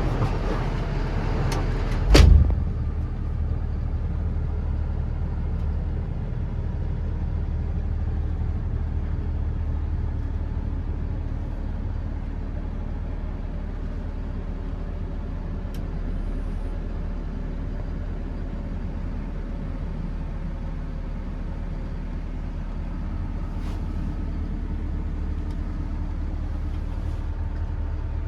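Cummins B6.7 turbo diesel idling steadily, with one sharp knock about two seconds in.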